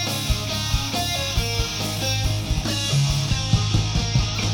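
Live rock band playing an instrumental passage: strummed electric guitar over bass and a steady drum beat, with no vocals.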